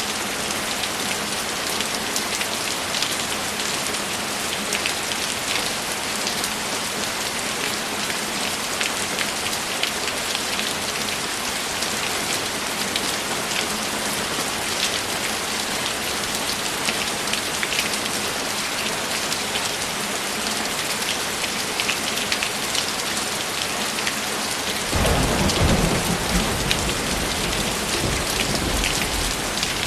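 Steady heavy rain falling, with a low rumble of thunder coming in suddenly about 25 seconds in and fading over the last few seconds.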